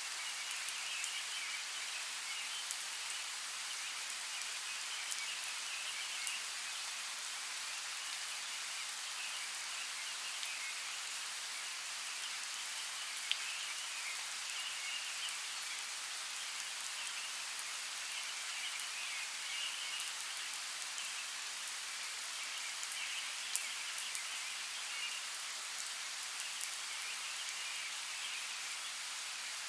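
Steady heavy rain falling, with scattered sharper drop impacts. A high chirring chorus comes and goes behind it.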